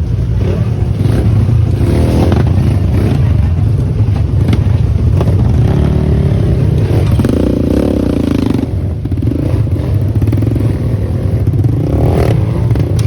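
Trail motorcycle engine running at low speed and being blipped as the bike crawls over large rocks, with clattering and scraping from the bike on the stones.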